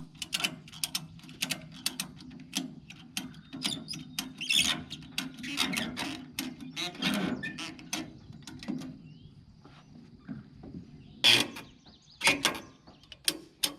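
Tie-downs being worked to secure a tractor on a trailer: a run of irregular metal clicks and clanks, the loudest a few sharp knocks near the end, over a steady low hum.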